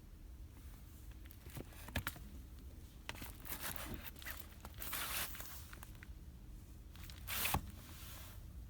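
Handling noise of packaged items: a couple of sharp clicks about two seconds in, then bursts of crinkling and rustling, the loudest near the end.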